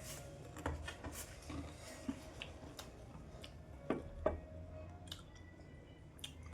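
Quiet eating sounds: scattered small clicks, taps and crunches of food being handled and chewed, with two sharper ticks about four seconds in.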